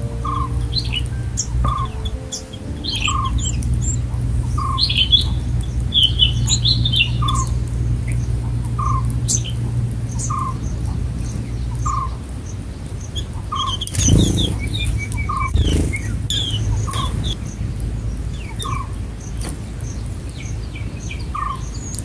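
Small birds chirping and twittering, with one short call repeating about every three-quarters of a second over a steady low hum. Two brief rustling bursts come about two-thirds of the way through.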